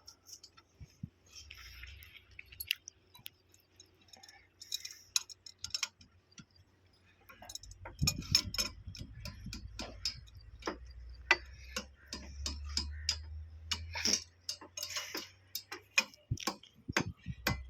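Sharp metallic clicks and clinks of hand tools and fittings being worked on a railway point machine, sparse at first and coming thick and fast from about eight seconds in, over a low steady hum.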